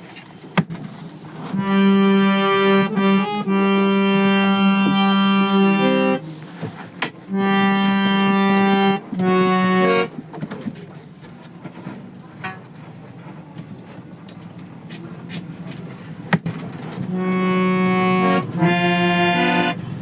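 Harmonium reeds sounding held notes, bellows-fed. A long note of about four seconds is followed by two shorter ones, then a pause with a few faint clicks, then another held note near the end.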